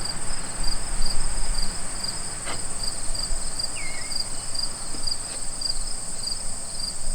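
Insects chirping in a steady, high, pulsing drone, with a short bird call about four seconds in and a couple of light knocks.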